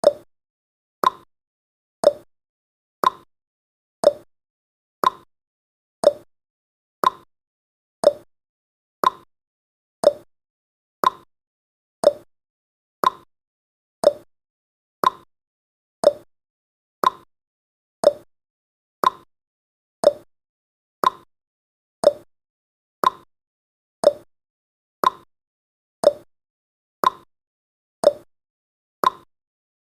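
Clock tick-tock sound effect of a countdown timer: one sharp tick each second, alternating between a higher and a lower tick.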